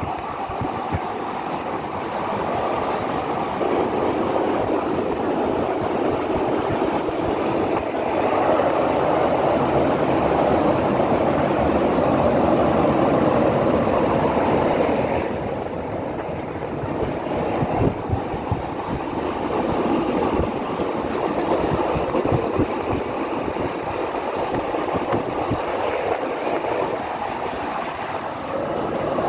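Ride noise inside a vintage Roslagsbanan narrow-gauge train carriage running along the line: a steady rumble of wheels on rails, with scattered clicks and knocks. It grows louder for a stretch in the middle and drops off about halfway through.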